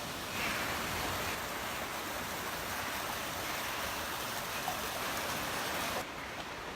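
Rushing water of a stream, a steady hiss that drops in level suddenly near the end.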